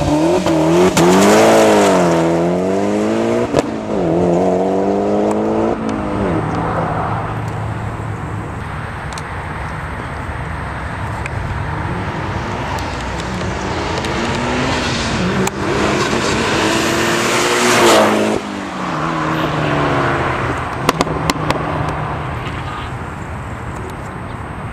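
Mitsubishi Lancer Evolution X's turbocharged 2.0-litre four-cylinder engine, breathing through a straight 3-inch turbo-back exhaust with the catalytic converter deleted. The engine's pitch swings up and down several times at first, steadies, then climbs to a loud peak and falls off sharply, followed by a few sharp clicks near the end.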